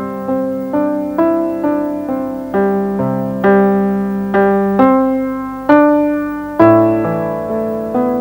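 Slow solo piano music: single notes and chords struck about every half second to a second, each ringing out and fading before the next.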